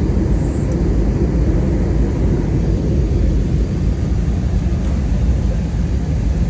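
Airliner cabin noise: a steady low rumble of engines and rushing air.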